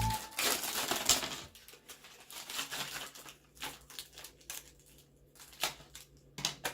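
Irregular clicks and clatter of toy cars and a plastic carry case being handled and opened.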